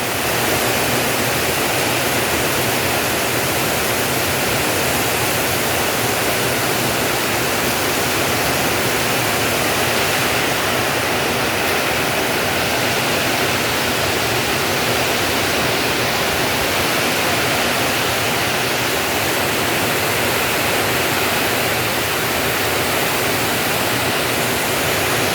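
Heavy rain pouring down in strong wind, a loud steady hiss with no letup.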